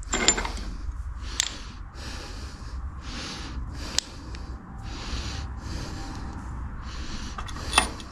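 Heavy breathing close to the microphone, short hissy breaths about once a second, with a few sharp metallic clicks of engine parts being handled, the loudest near the end.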